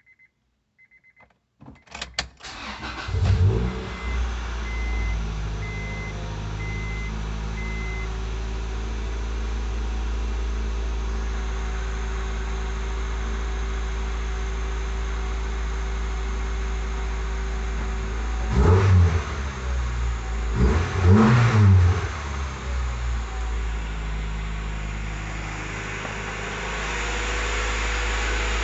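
1999 Acura Integra's four-cylinder engine on a cold start: a brief crank, then it catches with a flare and settles into a steady idle. It is blipped with the throttle twice about two-thirds of the way through. Short electronic beeps sound just before the crank and again for a few seconds after it catches.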